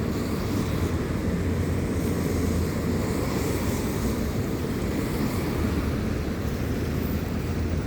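Steady low rumble of wind on the microphone while riding along a street, mixed with road noise.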